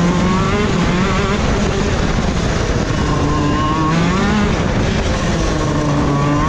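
KZ2 125 cc two-stroke shifter kart engine running hard, its pitch rising and falling several times as the kart accelerates and slows.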